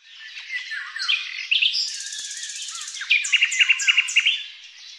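Birdsong: overlapping chirps, whistles and trills, fading in at the start, with a fast high trill about two seconds in, a run of about six quick repeated chirps a second later, and fading down near the end.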